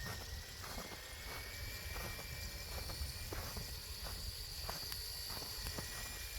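Electric motor of an RC crawler on snow tracks, a Hobbywing Fusion 1800 Pro, whining steadily as it crawls slowly, with scattered light clicks and crackles over a low rumble.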